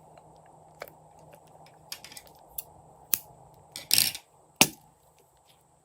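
Crunchy slime being handled, giving scattered crackles and snaps. The loudest is a cluster about four seconds in, with a sharp snap just after.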